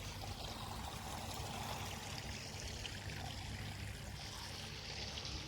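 Mineral spring water trickling and flowing over travertine terraces, a steady splashing hiss with a low rumble underneath.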